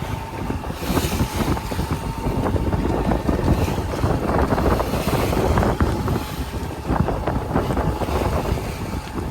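Wind buffeting the microphone aboard a small yacht under way, gusting and crackling, with the boat's engine and water noise underneath.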